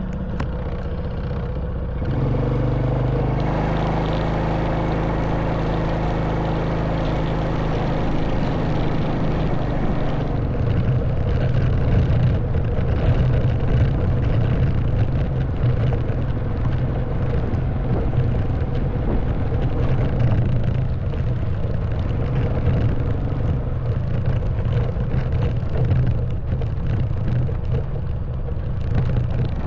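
Honda Wave 110cc's single-cylinder four-stroke engine running steadily under way, mixed with wind and tyre noise on a rough stone track. About two seconds in, the engine note changes and gets louder.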